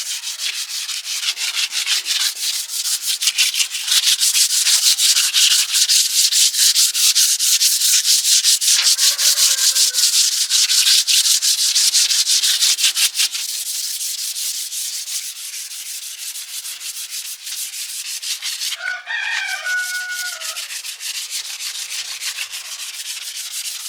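Rapid back-and-forth rubbing strokes of sanding or scrubbing a surface by hand, about five strokes a second, louder through the first half and softer later. About 19 seconds in, a rooster crows once.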